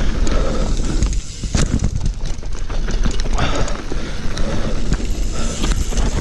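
Downhill mountain bike clattering over rough trail: rapid irregular knocks and rattles as it hits rocks and roots at speed. Wind rumbles steadily on the microphone throughout.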